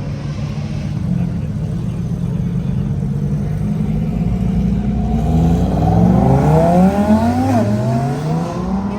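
A car engine rumbling low, then accelerating hard from about halfway, its pitch climbing steadily, with a brief drop near the end as it shifts up before climbing again.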